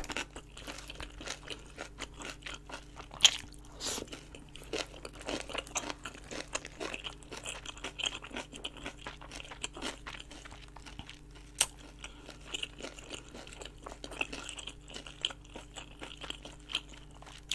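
Close-up chewing of braised kimchi rolls with pork belly: wet, irregular crunching and mouth clicks of napa cabbage kimchi and meat being chewed, with a few sharper crunches.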